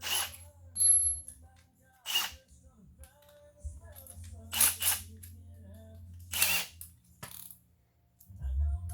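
Hand-tool and hardware handling while bolts are fitted into a generator's bottom panel: about six short, sharp noises at irregular intervals over a faint low hum.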